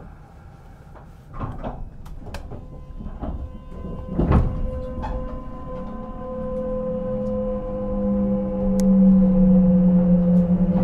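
Sliding doors of a Kintetsu 5200-series train shutting with several knocks and one heavy thud about four seconds in. Then the train starts to pull away, a steady whine and low hum from its traction motors growing louder.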